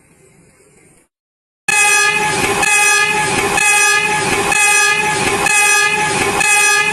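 A train horn sounds loudly and without a break as a held chord of several tones, with a slight pulse about once a second. It starts abruptly after a moment of dead silence.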